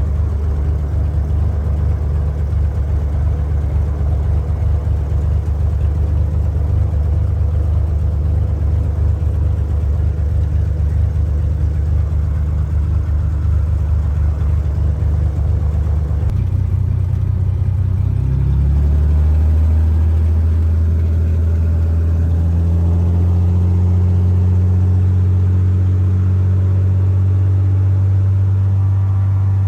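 Cessna 210's six-cylinder piston engine running steadily. About sixteen seconds in it speeds up over a couple of seconds to a higher, slightly louder steady note, as when the throttle is opened.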